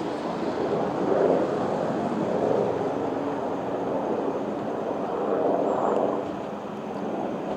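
A train running through the station, a steady mechanical noise that swells louder three times, about a second in, in the middle and near six seconds.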